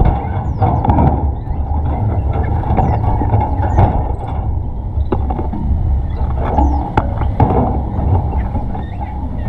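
Steady low rumble with many short, high bird chirps over it.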